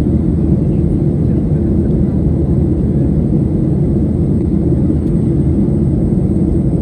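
Boeing 737-800's CFM56-7B jet engines running during departure, a loud, steady low rumble with no change in pitch or level.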